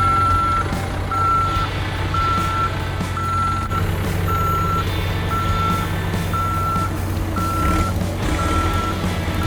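A reversing machine's backup alarm beeps steadily about once a second, a single high tone, over the low drone of its diesel engine running.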